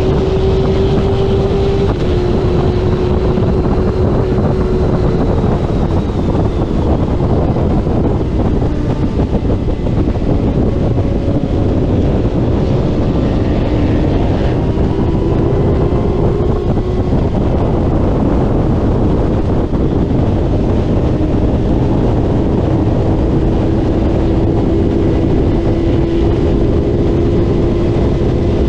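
Middleweight racing motorcycle engine running hard on track, recorded onboard with heavy wind noise on the microphone. The engine note shifts up and down in pitch several times as the bike accelerates, shifts and slows.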